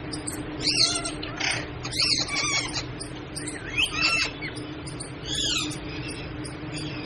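Pet parrot giving a series of short squawking calls, about six of them, a second or so apart. A steady low hum and a faint, regular high ticking run underneath.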